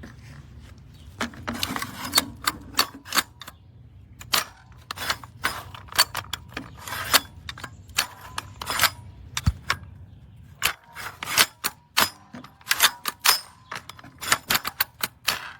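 An irregular series of sharp clicks and knocks, often several a second and coming in clusters, over a faint low rumble.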